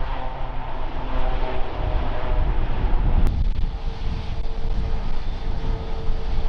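Airbus A350-900 jet airliner with Rolls-Royce Trent XWB engines coming in to land, its engine whine over a heavy low rumble of wind on the microphone. The sound changes abruptly about three seconds in, with a steady hum after.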